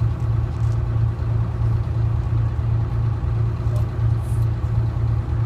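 Detroit Diesel 6V71 two-stroke diesel engine of a 1970-71 GMC New Look bus running steadily, a low drone with a fast even pulse.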